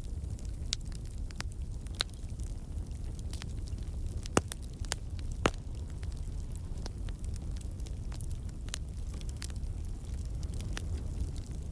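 Wood campfire burning: a steady low rumble of flames with scattered crackles and pops from the logs, two sharper pops about four and five and a half seconds in.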